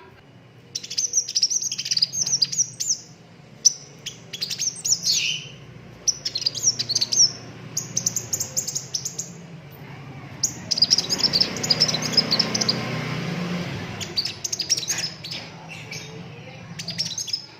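A sunbird (kolibri raja) singing hard in bursts of rapid, very high chirps and short trills, broken by brief pauses. A faint low hum runs underneath, and a hiss swells under the song about midway.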